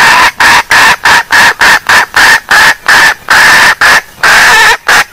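Female junglefowl call used as a lure: a loud, rapid run of short notes, about two or three a second, at one steady high pitch, a few notes held a little longer.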